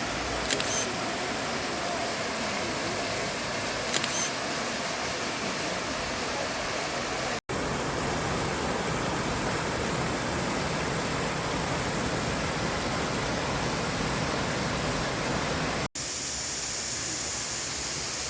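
Steady rushing noise, broken twice by sudden cuts, with two brief clicks in the first few seconds.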